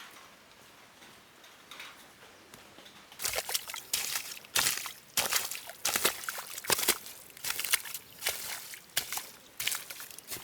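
Water splashing and sloshing in irregular strokes, about one or two a second, starting about three seconds in after a faint hiss.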